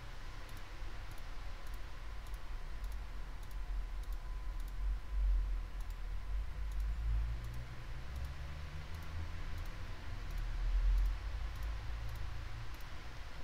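Faint, evenly spaced computer-mouse clicks, about two a second, over a low steady electrical hum.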